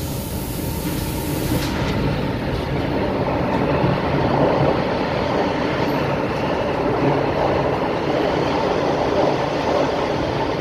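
Passenger train running at speed: a steady, dense rumble of the train in motion. A high hiss over it cuts off sharply just under two seconds in.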